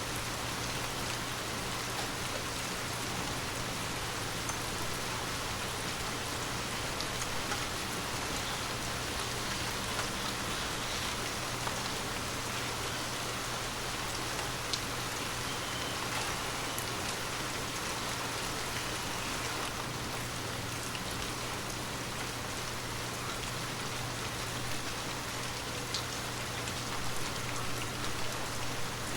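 Water drops falling steadily on glass: a continuous rain-like hiss with scattered light taps of single drops.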